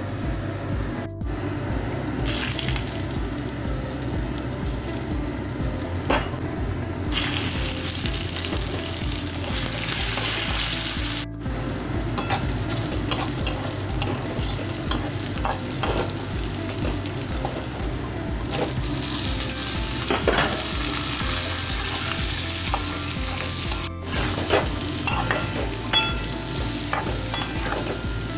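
Hot oil sizzling in a wok as whole spices and then chopped onions fry, with a spatula scraping and stirring against the pan. The sizzle is continuous except for three abrupt breaks where the clips are cut.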